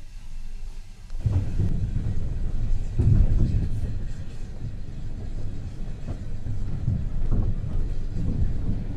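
Compartment coach of a heritage train running along the line, heard from inside: a steady low rumble with occasional knocks from the wheels on the rails, starting about a second in.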